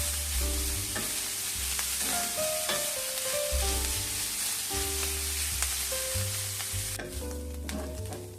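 Food sizzling as it fries in a pan, with a few clicks of a utensil against the pan; the sizzling stops abruptly about seven seconds in. Background music with melodic notes and a bass line plays throughout.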